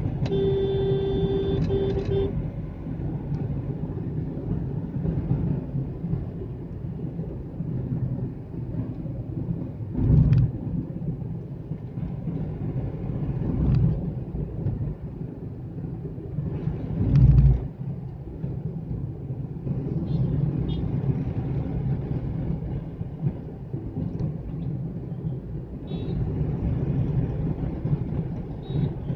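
Hyundai Xcent on the move, with steady engine and road rumble. A vehicle horn sounds for about two seconds near the start, and three heavy low thumps come around the middle.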